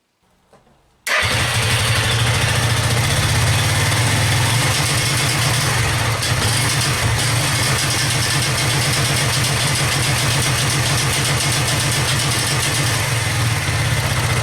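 Suzuki TU250X motorcycle's single-cylinder engine, running steadily at an even speed. It comes in abruptly about a second in.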